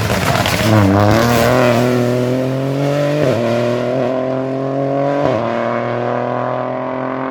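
Rally car accelerating hard under full throttle. The engine note climbs steadily, with two quick upshifts about two seconds apart.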